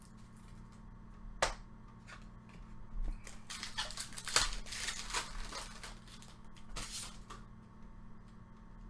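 Baseball card packs and cards being handled: a sharp click about a second and a half in, then several seconds of crinkling and rustling of a pack wrapper being torn open.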